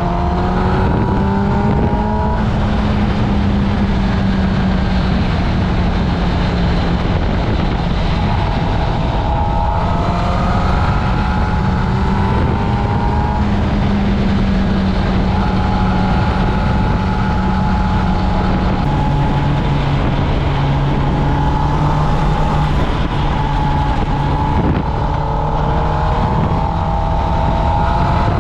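Kawasaki Ninja ZX-10R's inline-four engine running steadily through its stock exhaust while riding, its pitch climbing gently at times and stepping down about two-thirds of the way through.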